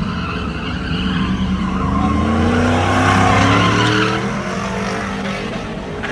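Truck engine revving hard, with tyres squealing over it. The revs climb to a peak about three seconds in, then ease off.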